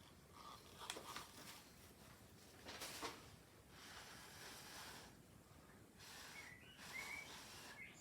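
Near silence with a few faint puffs of breath, each about a second long, and a couple of faint chirps near the end.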